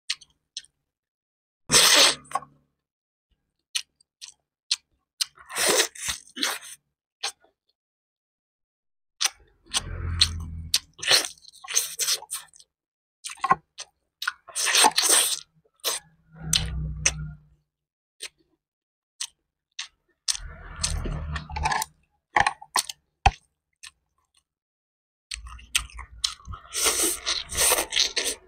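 Close-miked chewing and crunching as a person eats boiled chicken, with sharp mouth clicks, coming in several bouts with dead silence between them.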